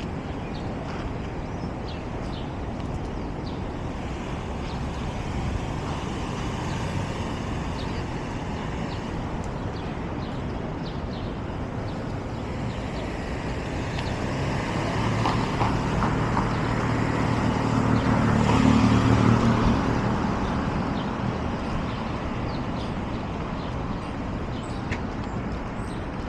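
Steady city street traffic noise, with a large motor vehicle's engine passing close by, swelling and then fading away, loudest about three quarters of the way through.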